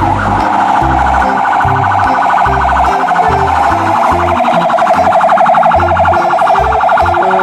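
Fire engine siren in fast electronic yelp mode, warbling rapidly and steadily, over background music with a thumping bass beat.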